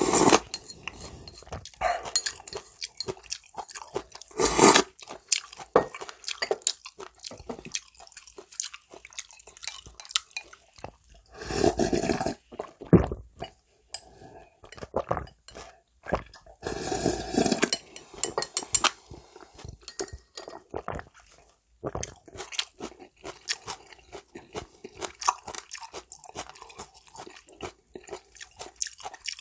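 Close-miked eating of warm noodle soup: steady crunchy chewing and mouth clicks, broken about four times by longer wet slurps of noodles and broth.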